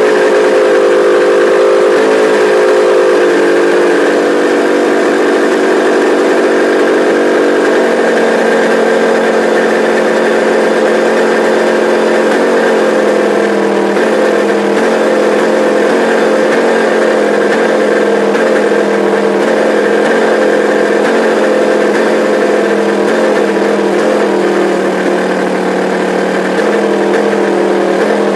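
Kawasaki H1 500's three-cylinder two-stroke engine running steadily with no throttle blips, its pitch stepping down a little and slowly sinking as the revs fall off.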